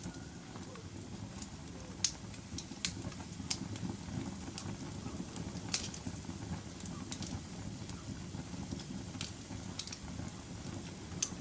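Wood fire burning in a fireplace: a steady low rumble of flames with sharp crackles and pops every second or so. The loudest pops come about two seconds in, near six seconds and near the end.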